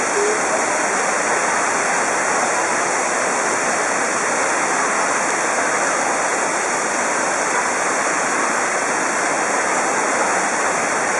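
Heavy rain falling on a glass roof: a steady, dense hiss that holds an even level throughout.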